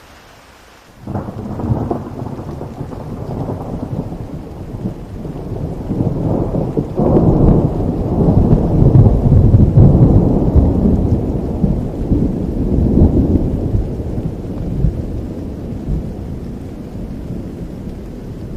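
A long roll of thunder over steady rain: it breaks in suddenly about a second in, swells to its loudest in the middle and slowly dies away into a low rumble.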